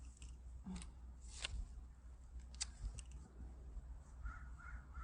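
A few faint, scattered clicks and taps of hand tools on metal, such as a wrench being fitted to a bolt, with a few short faint squeaks near the end.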